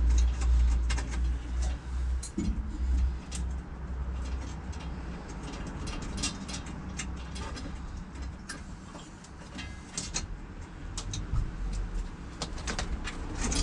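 Hand tools working on metal as a bolt holding an earth strap is undone: scattered, irregular clicks and light metallic knocks over a low rumble that is strongest in the first few seconds.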